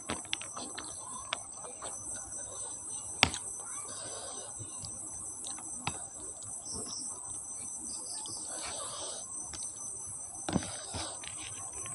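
Close-up eating sounds: chewing and wet mouth clicks as rice and curry are eaten by hand, with one sharp click about three seconds in. A steady high-pitched whine runs underneath.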